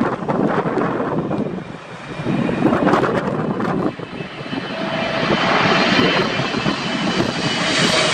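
Jet airliner on approach in a strong gusty crosswind, its engines growing steadily louder through the second half with a faint whine, over gusts of wind buffeting the microphone.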